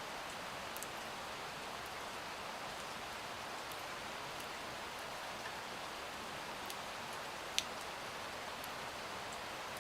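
Steady rain falling, an even hiss with scattered sharper drop ticks; one louder tick about three-quarters of the way through.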